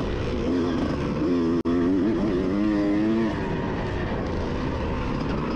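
1988 Honda CR125 two-stroke motocross engine revving up and down as the throttle is worked, with the pitch rising and falling repeatedly. The sound cuts out for an instant about a second and a half in.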